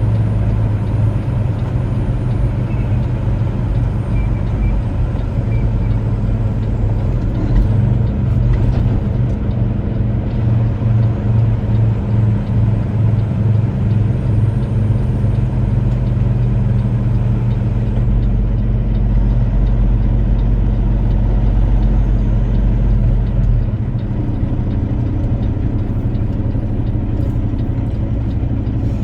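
Semi truck's diesel engine running steadily under way, heard from inside the cab with road noise. A few short knocks come about eight seconds in, and a deeper rumble swells in the middle stretch.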